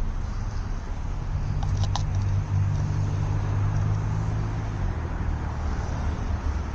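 A motor vehicle's engine running with a steady low hum that comes in about a second in and fades near five seconds, over outdoor background noise.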